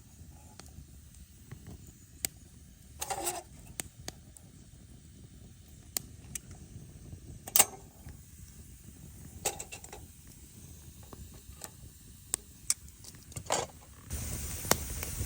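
Wood cracking and snapping: scattered sharp clicks, with a few louder snaps a few seconds apart. Near the end a louder, steady hiss sets in abruptly.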